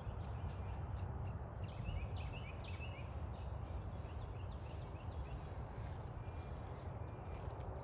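Small birds chirping faintly, a cluster of short chirps between about one and three seconds in and a brief thin whistle a little later, over a steady low outdoor rumble.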